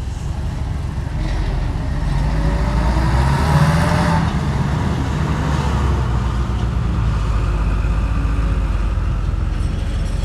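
Heavy diesel engine of earthmoving machinery running under load. It climbs in pitch and loudness about three to four seconds in, then settles back to a steady run.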